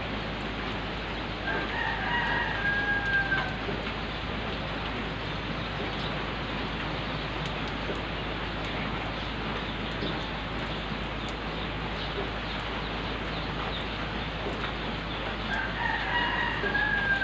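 Steady rain falling on a wet gravel road and vegetation, with a rooster crowing twice, once about two seconds in and again near the end.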